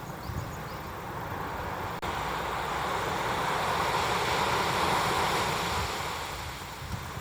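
Wind and sea-wash noise aboard a small boat, a steady rush with wind on the microphone that swells in the middle and eases off near the end.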